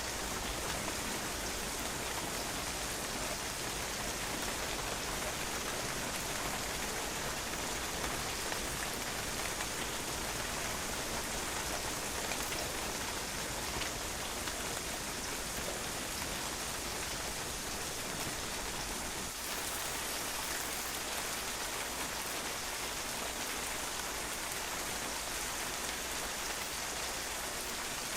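Steady rain falling on a patio, the drops pattering on the hard surface in an even, unbroken hiss.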